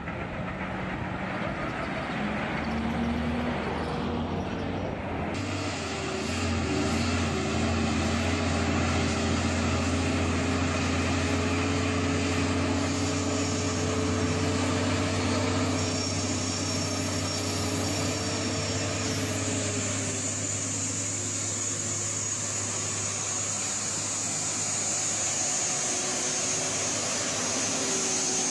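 Heavy truck engine running steadily under load, a low drone whose pitch drifts slowly, over road and wind noise. The sound turns brighter and a little louder about five seconds in.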